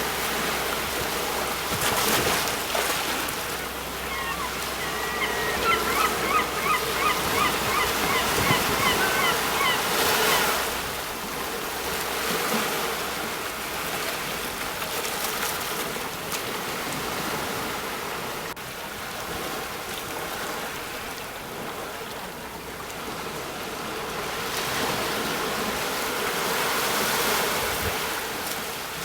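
Sea waves breaking and washing on the shore, a steady rush that swells and ebbs. From about four seconds in to about ten seconds, a bird calls in a rapid series of short, repeated notes over the surf.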